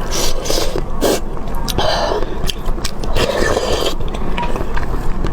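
Close-miked eating sounds: food being chewed and mouth noises in irregular short bursts, several times.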